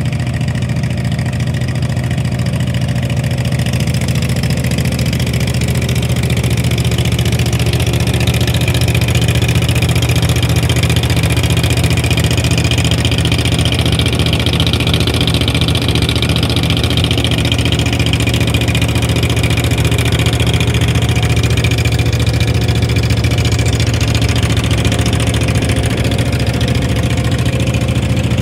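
A large wood chipper's engine running steadily, with a slightly higher, fuller sound through the middle stretch.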